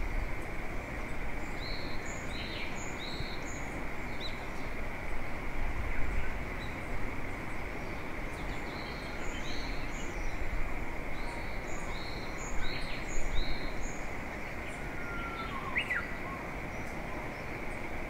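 A songbird calling in short runs of three or four quick high notes, repeated several times, over a steady outdoor background hiss with low rumbles now and then.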